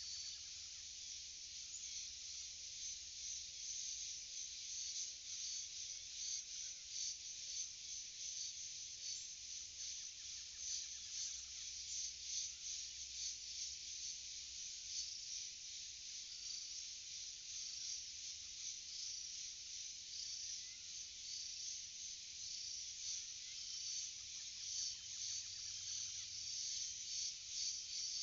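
Dense insect chorus, a steady high-pitched buzzing and trilling with rapid pulsing. A faint low call repeats about twice a second for several seconds.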